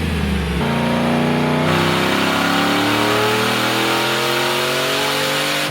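Cammed Chevy Suburban V8 on a wide-open-throttle dyno pull, the engine note climbing steadily in pitch under load for about five seconds.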